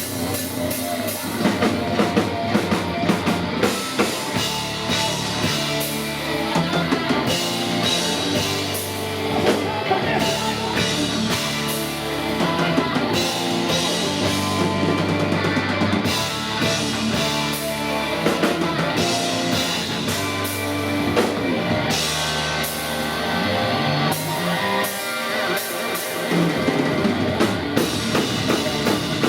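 Heavy metal band playing live, with drum kit and electric guitars to the fore.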